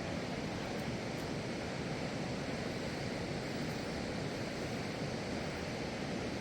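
Heavy rain falling, a steady dense rushing noise with no let-up.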